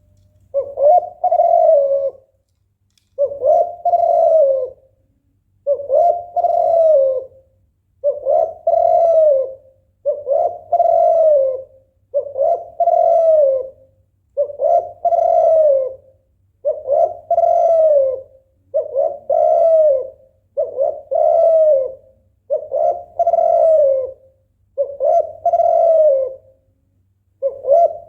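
Female spotted dove (tekukur) giving her repeated 'bekur' call: a two-part coo, a short note then a longer one, about once every two seconds. It is the call of a hen in breeding condition calling a male.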